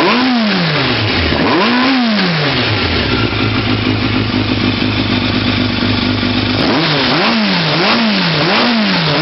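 Yamaha FZR600R inline-four motorcycle engine revved twice near the start, each time rising and falling back. It then idles steadily and is blipped three times in quick succession near the end.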